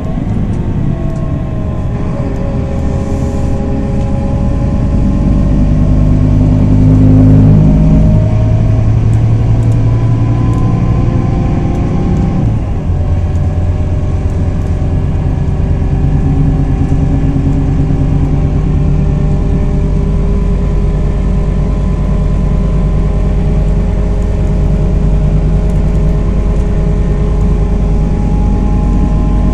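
Scania Irizar i4 bus heard from on board, its 320 hp Scania diesel pulling and getting louder over the first several seconds. About twelve seconds in the engine note changes abruptly as the ZF six-speed automatic gearbox shifts, then it runs on steadily with a faint gear whine.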